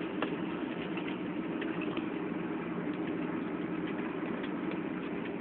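Scania truck's diesel engine running steadily, heard from the cab, with light rattles and knocks as the truck shakes along a dirt road.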